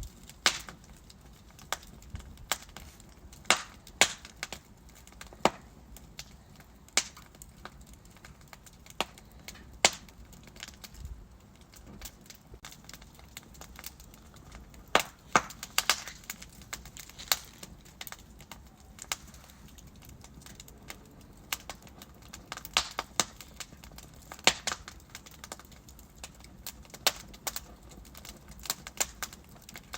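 Burning logs crackling and popping in a fireplace: irregular sharp snaps, a few of them loud, over a low steady hiss of the flames.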